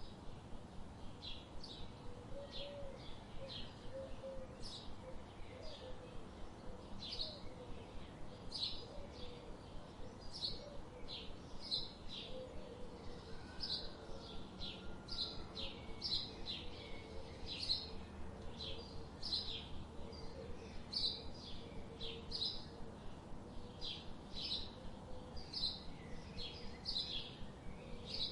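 A bird calling in a steady series of short, high chirps, one or two a second, over faint background ambience with a softer, lower warbling sound.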